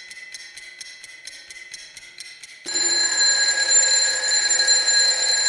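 Electronic alert tones: a rapid ringing of about four strikes a second, then about two and a half seconds in a much louder steady alarm tone with a hissy edge that holds to the end.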